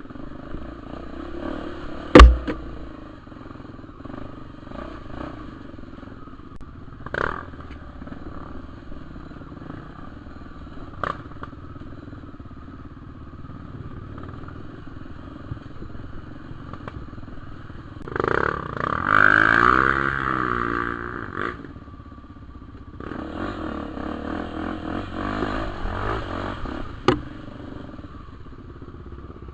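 Honda XR250 Tornado trail motorcycle's single-cylinder engine running at low speed through mud. The revs rise and fall for a few seconds past the middle and pick up again later. There is one sharp loud knock about two seconds in and a few lighter knocks and clatters along the way.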